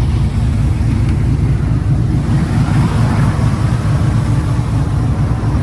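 A motor vehicle running, with a steady low rumble throughout.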